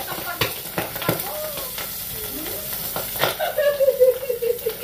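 Pork belly deep-frying in a pot of hot oil, sizzling steadily, with sharp clicks of metal tongs turning the pieces. Near the end a drawn-out vocal sound falls in pitch.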